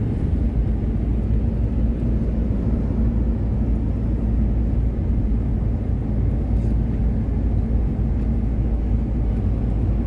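Steady low rumble of engine and road noise heard inside a moving vehicle.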